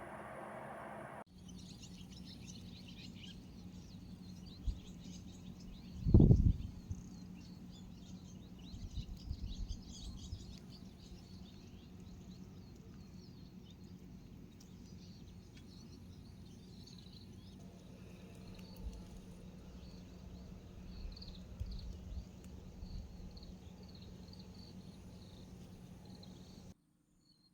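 Outdoor ambience of small birds chirping, many short high calls over a steady low hum. A loud low thump comes about six seconds in, with softer low rumbles later. The sound cuts out suddenly near the end.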